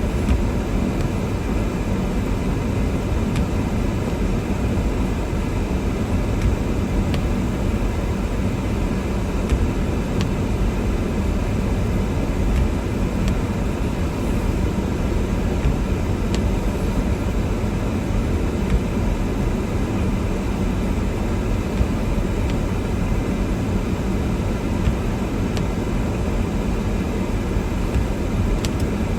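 Steady driving noise of a car moving through a snowstorm: an unchanging low rumble of tyres, engine and wind, with a few faint ticks now and then.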